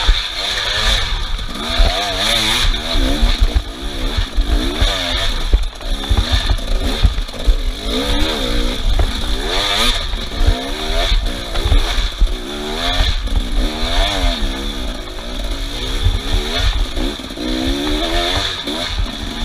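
Small off-road vehicle engine, the kind on a trail motorcycle or ATV, revving up and down over and over, its pitch rising and falling every second or so.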